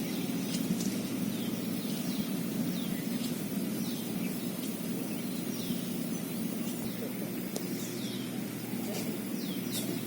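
A small bird calling over and over, short falling chirps about one or two a second, over a steady low rumble.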